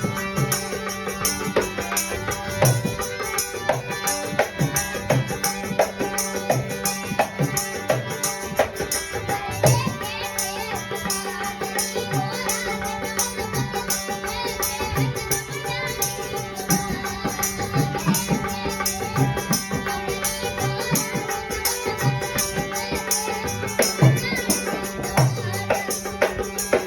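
Indian folk music with a hand drum and a rattling percussion keeping a fast, steady beat.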